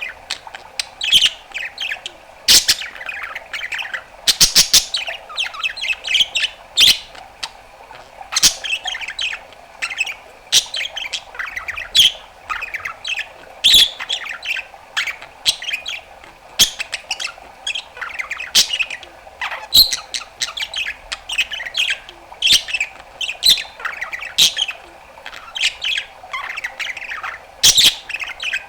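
Pet budgerigar warbling continuously: a fast run of chirps, trills and squawks, broken by sharp clicks and pops every second or so.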